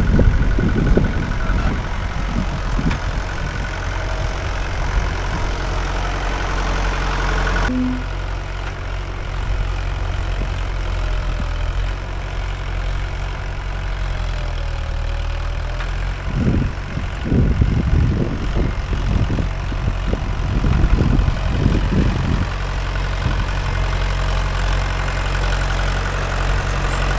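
Mahindra 575 DI tractor's diesel engine running steadily, with stretches of louder, uneven low rumbling near the start and again about two-thirds of the way through.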